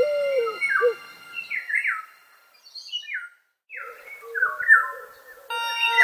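Recorded birdsong: repeated short chirps sliding downward in pitch, with lower calls mixed in, and a brief pause about halfway. Steady music tones sound underneath at first and fade, and a sustained music chord comes in near the end.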